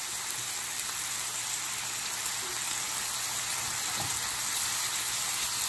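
Sliced onions sizzling in hot oil and soy-sauce marinade in a frying pan: a steady hiss.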